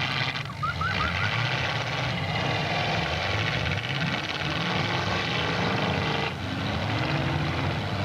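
Demolition derby car engines running and revving: a steady low drone whose pitch wavers as the throttles rise and fall.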